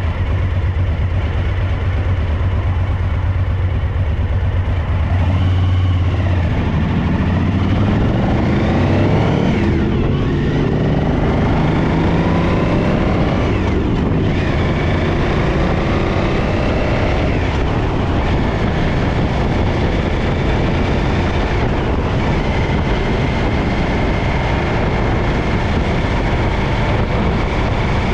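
Suzuki DL1000 V-Strom's V-twin engine, which has a rear-cylinder misfire, running at a steady low note, then from about six seconds in rising in pitch and dropping back several times.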